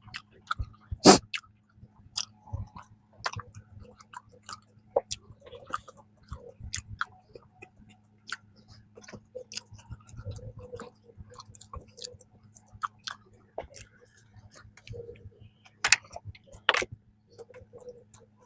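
Close-miked chewing of a soft peanut cream bun, with many wet mouth clicks and smacks. A few louder smacks come about a second in and twice near the end.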